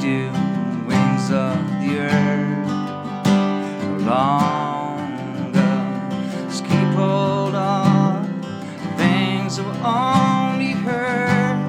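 Live band music: strummed acoustic guitar, with a melody line above it that slides between notes.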